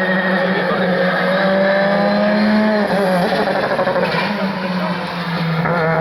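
Rally car engine at high revs accelerating along a stage, its pitch climbing steadily, dropping sharply about three seconds in, then climbing again near the end.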